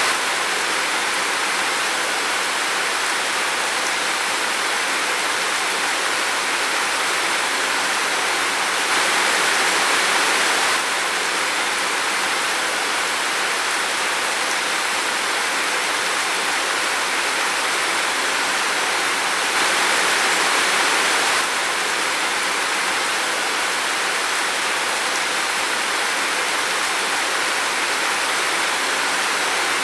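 Steady heavy rain falling in a forest, an even hiss that swells a little louder twice for about two seconds.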